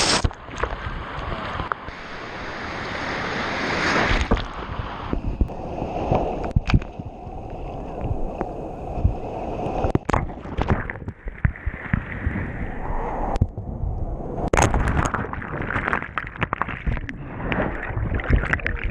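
Pacific Ocean waves surging and draining back over the GoPro, with water sloshing, and sharp knocks here and there.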